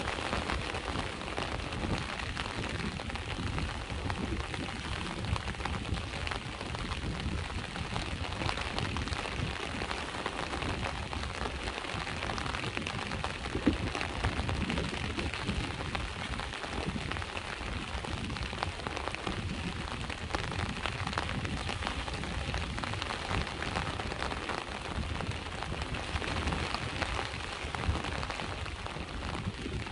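Steady rain falling, with many small drop hits, over a low, continuous rush of sea waves.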